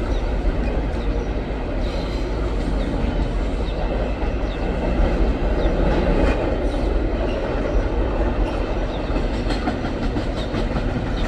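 Empty cars of a long freight train rolling past, a steady rumble of steel wheels on the rails with occasional clicks over the rail joints.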